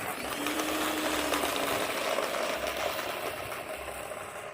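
Electric ducted fan of an FMS F-18 64 mm RC jet running at low throttle: a steady whirring hiss that drops away suddenly at the end.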